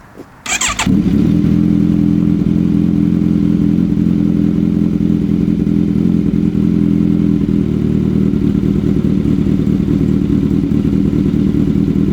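A 2017 Kawasaki Z1000R's inline-four engine, breathing through an Arrow full-system exhaust, is started with a brief whirr about half a second in. It catches and settles into a steady idle.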